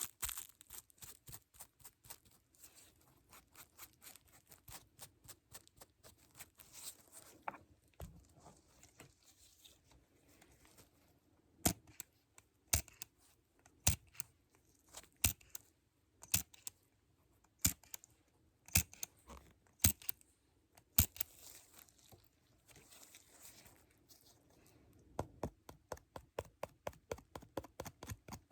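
Close-up ASMR tapping and clicking on small props: quick light taps at first, then sharper single clicks about once a second through the middle, and quick taps again near the end.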